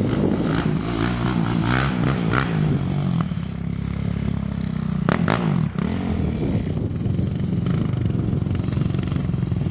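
Suzuki LT-Z400 quad's single-cylinder four-stroke engine revving up and down under riding, with a couple of sharp clattering knocks about five seconds in, then running steadily.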